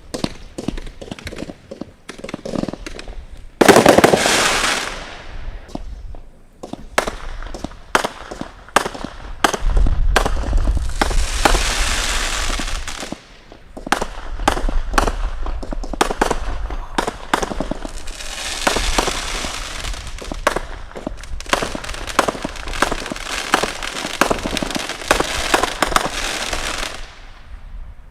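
Consumer firework cakes firing: a rapid run of sharp bangs and pops, with one very loud burst about four seconds in and long stretches of dense crackling later on, dying away near the end.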